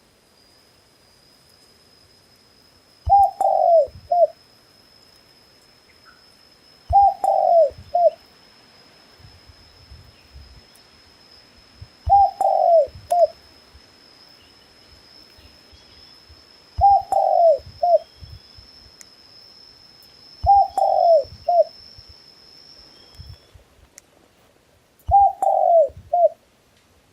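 Dove cooing: six short phrases about every four to five seconds, each a falling coo followed by a short clipped note. A thin steady high-pitched tone runs beneath and stops near the end.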